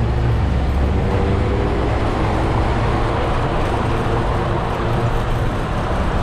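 Steady city road traffic of cars and buses heard from a moving bicycle, with a heavy low rumble of wind on the action camera's microphone.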